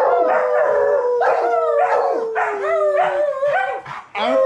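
A group of canines howling and yipping together: one long howl held and slowly falling in pitch for about three seconds, with many short, wavering yips over it. The chorus breaks off briefly near the end and starts up again.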